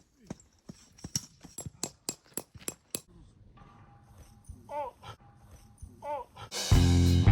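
Rapid irregular clicks and taps, then two short wavering whines about five and six seconds in; loud music with a bass line comes in near the end.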